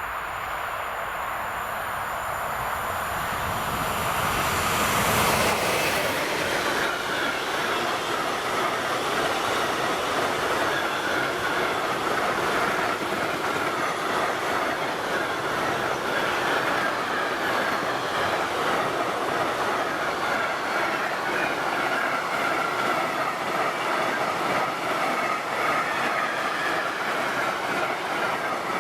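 Container freight train hauled by a Vectron electric locomotive passing on the line, loudest about five seconds in, then a long steady rumble of wagon wheels running over the rails with a persistent high ringing tone from the wheels.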